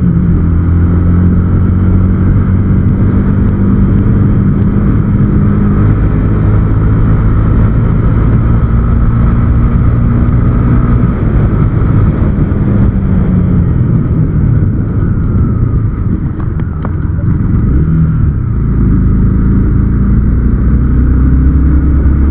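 Motorcycle engine running at a steady cruise on the road, with only light wind rush because the helmet and camera have been sealed against the wind. The engine eases off briefly around sixteen seconds in, then picks up again.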